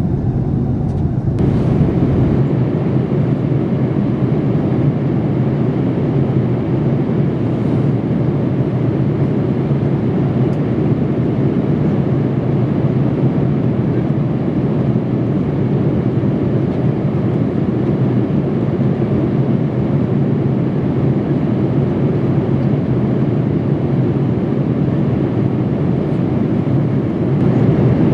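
Steady airliner cabin noise inside a Boeing 787-8 in flight: a constant rush of airflow and engine sound with a low hum. It brightens slightly about a second in.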